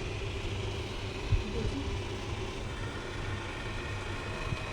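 Xiaomi Mijia robot vacuum running: a steady motor and fan drone with a faint high whine, and one short knock about a second in.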